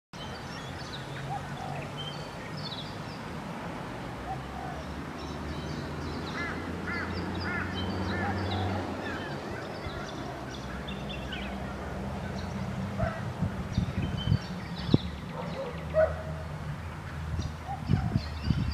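Several birds calling in the trees with short chirps and whistles, including a run of about four looping calls a third of the way in, over a steady low drone. Several sharp knocks sound near the end.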